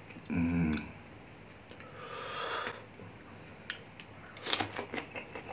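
Mouth sounds of eating crisp unripe green mango. There is a short closed-mouth hum about half a second in, a breathy hiss around two seconds in, and a run of crunchy clicks and crackles of chewing near the end.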